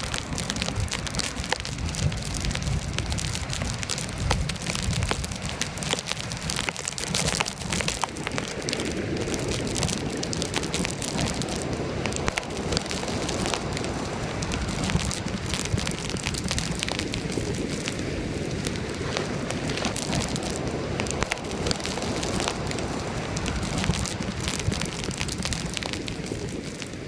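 Strong wind buffeting the microphone in an 80 km/h windstorm, mixed with a dense crackling hiss of sea and spray.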